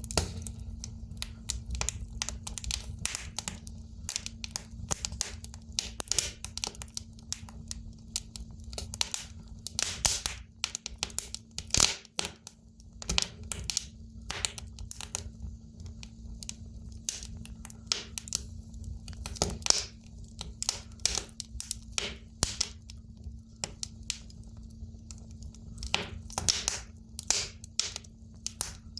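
Firewood burning in an open fireplace: dense, irregular crackles and pops from the burning logs over a low steady rumble.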